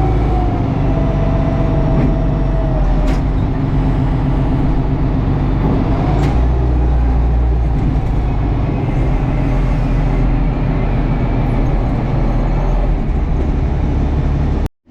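Tractor engine running steadily, with a few sharp knocks over it. The sound cuts off abruptly near the end.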